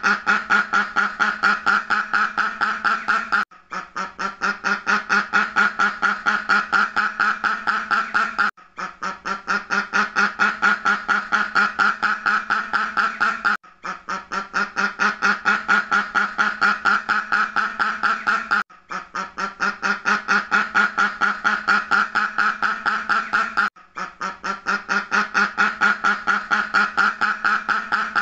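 A duck quacking in rapid series, several quacks a second, in runs of about five seconds broken by brief pauses. The same run repeats over and over, a looped sound-effect recording.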